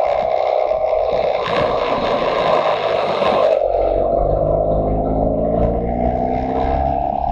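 Motorcycle engine running under throttle, then backing off about halfway through with its pitch falling, and picking up again near the end.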